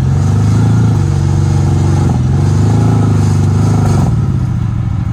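Side-by-side UTV engine revving under throttle: the pitch climbs, eases slightly, climbs again, then drops back after about four seconds.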